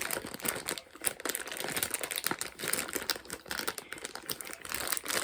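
Plastic snack packaging crinkling and crackling as it is handled, in quick irregular bursts.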